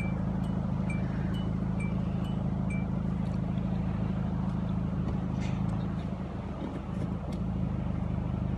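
Vehicle engine idling steadily, its low hum dipping briefly about six seconds in. During the first three seconds a short high chime repeats about twice a second.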